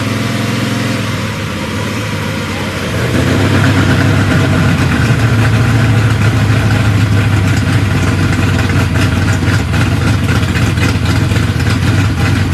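A car engine idling steadily, getting louder about three seconds in and staying up.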